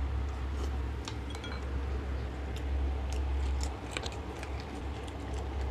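Close-miked eating: scattered wet chewing and mouth clicks as two people eat boiled pork knuckles and vegetables, over a low steady hum that drops away about four seconds in.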